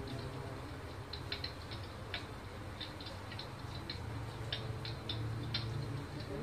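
Electric fireplace's built-in crackling sound effect: irregular sharp snaps and pops, a few a second, imitating a wood fire, over a low steady hum.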